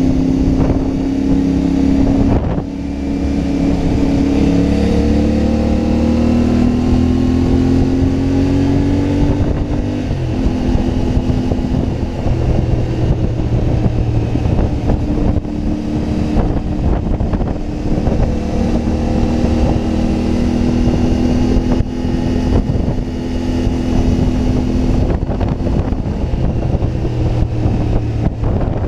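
CFMoto 450MT motorcycle's parallel-twin engine under way. Its pitch climbs steadily for several seconds, drops suddenly about ten seconds in as it shifts gear, and then holds fairly steady at cruising speed.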